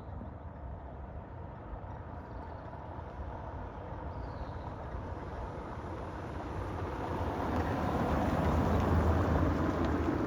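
A car driving past, its engine rumble swelling over the second half and easing off near the end. A few short falling chirps, like a bird, come now and then.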